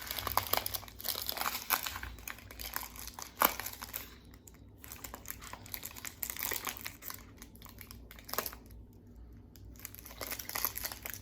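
Parchment paper crinkling and sticky tape being pulled and pressed as the paper is taped over the end of a cardboard toilet-paper roll: irregular crackles, with one sharp snap about three and a half seconds in.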